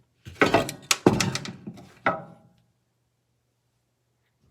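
Parts stripped from a miter saw being tossed onto scrap piles: four or five clattering knocks of pieces landing, in the first two seconds or so.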